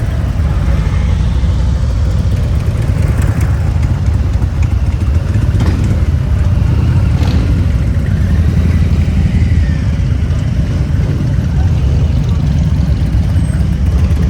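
Harley-Davidson V-twin motorcycle engine running steadily at low revs with a deep, even rumble.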